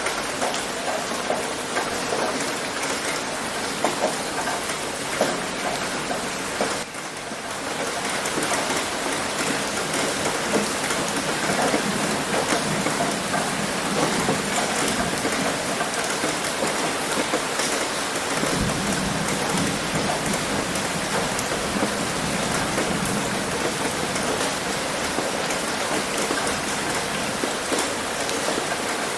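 Heavy rain pattering steadily on a roof, a dense hiss of countless small drop impacts. A low rumble joins in underneath about two-thirds of the way through.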